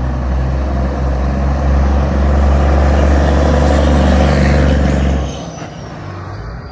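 Heavy truck engine and exhaust running loud at a steady pitch as the truck drives past. It is loudest from about two to five seconds in, then drops off suddenly.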